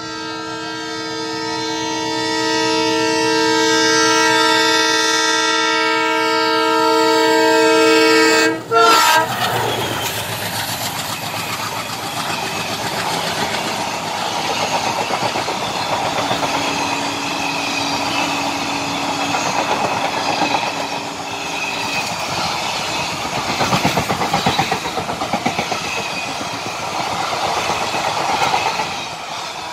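ALCO diesel locomotive sounding one long horn blast of several tones, held for about eight and a half seconds and cut off sharply. Then passenger coaches rush past at speed, making a steady loud rolling noise.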